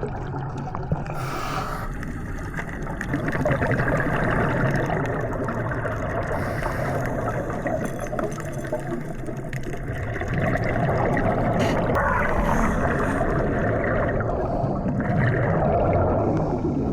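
Water rushing and sloshing over a low steady rumble, as from a boat underway, swelling louder about 3 s in and again about 10 s in.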